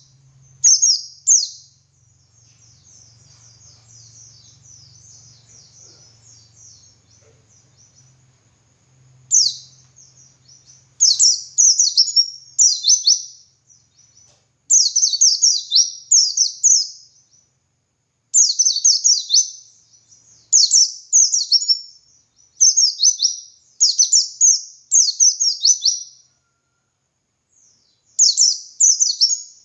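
White-eye (pleci) singing: bright, high-pitched twittering phrases of rapid chirps, repeated in short bursts with brief pauses between them. A faint low hum sits under the first few seconds.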